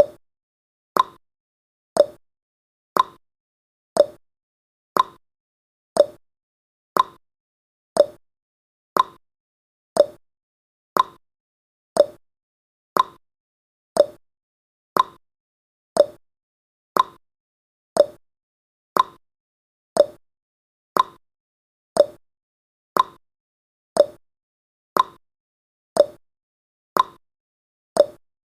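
Countdown timer's clock-tick sound effect: one short, sharp tick every second, steady and even.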